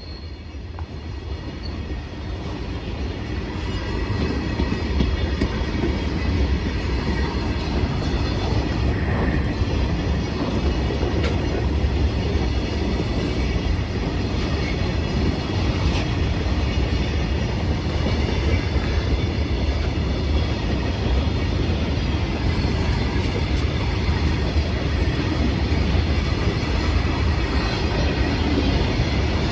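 Goods train rolling along the rails with a steady, heavy rumble that grows louder over the first few seconds and then holds steady.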